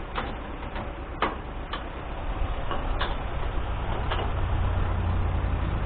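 Several sharp clicks and knocks from parts being fitted by hand on a seed drill, over a low engine rumble that grows louder about halfway through.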